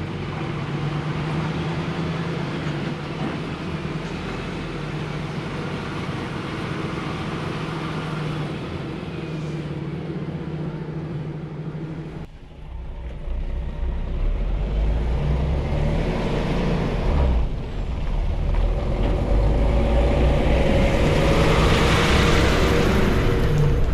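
HGV lorry engine running under way, a steady hum for the first half. About halfway through it drops off suddenly for a moment, then comes back louder and deeper, with road noise rising toward the end.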